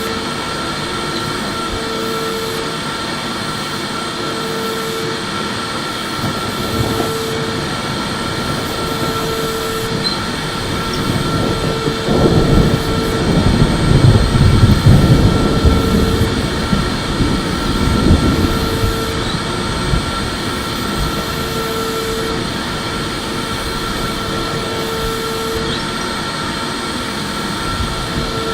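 Electric vacuum cleaner running continuously with a steady high whine, a short hum that comes and goes about every two seconds, and a heavier, louder low rumble for several seconds in the middle.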